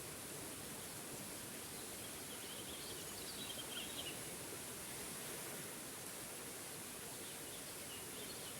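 Steady rushing of a small forest waterfall, with a bird chirping briefly a few seconds in and faintly again near the end.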